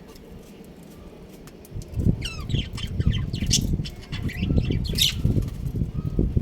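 Budgerigars chirping and squawking in quick gliding calls, starting about two seconds in, over loud low fluttering and rustling bursts.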